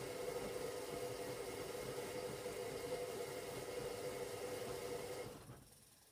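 Hoover Logic washing machine running on a cotton 60 wash with a steady whir and hum, which cuts off about five seconds in.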